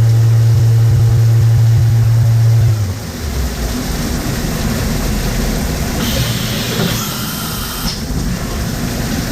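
A steady machine motor hum cuts off about three seconds in, leaving a noisy shop rumble, with a brief high hiss from about six to eight seconds in.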